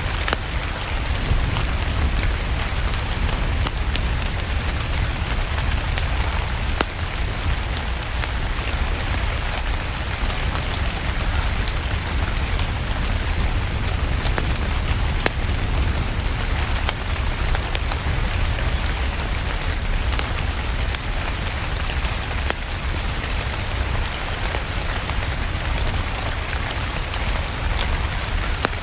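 Steady rain with a deep low rumble, and scattered sharp crackles of a wood fire throughout.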